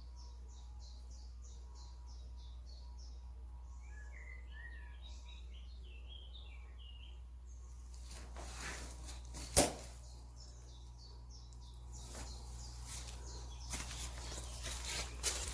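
Wild birds singing outdoors: a quick run of high chirps, then lower twittering, then more chirps, over a steady low hum. A single sharp click stands out about ten seconds in, followed by scattered clicks and rustling near the end.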